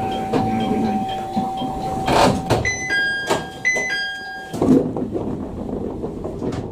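Passenger train's door chime sounding twice, a two-note falling ding-dong each time, as the sliding doors open, with a burst of air at the start and thumps of the doors moving. A steady electrical hum stops about four and a half seconds in.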